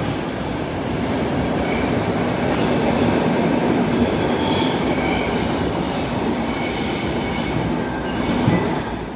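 Stockholm Metro train running on the rails, with high-pitched wheel squeal that comes and goes over a steady rumble.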